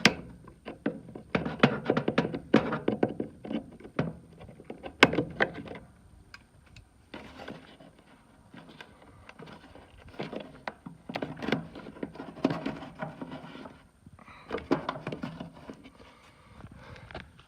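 Hand work on furnace parts: irregular clicks, knocks and scraping as parts and tools are handled, in clusters with short pauses between.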